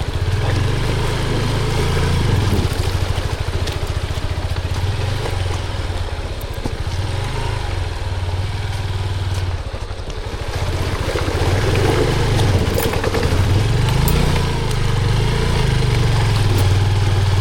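Honda XR150L's single-cylinder engine running at low revs while the bike is ridden slowly. The engine eases off about ten seconds in, then picks up again.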